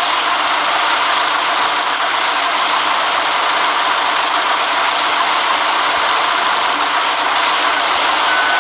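Steady hiss and rumble of a city bus running on a rain-wet road. A steady electronic beep starts right at the end.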